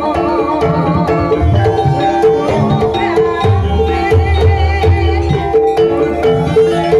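Traditional Javanese music for an ebeg horse dance: a tuned xylophone-type instrument plays a quick repeating melody over low hand-drum strokes, with a wavering melody line above.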